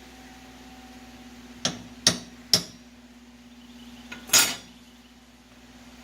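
Sharp metallic clanks of steel bar stock being struck while it is bent into a latch spring, about four blows spread over a few seconds with the last the loudest. A steady low hum runs underneath.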